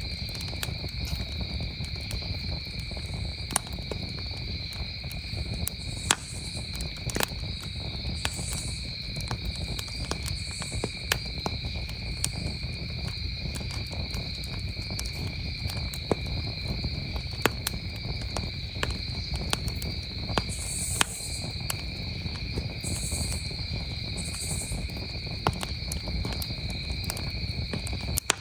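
Campfire crackling, with sharp pops scattered irregularly, over a steady, unbroken chorus of crickets trilling.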